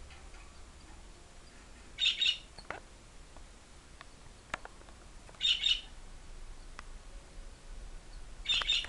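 Five-day-old canary chicks cheeping in short, high bursts, three times a few seconds apart, with faint clicks in between.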